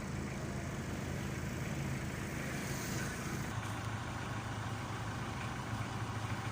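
Motor vehicle engine idling with a steady low hum, which settles a little lower and steadier about halfway through.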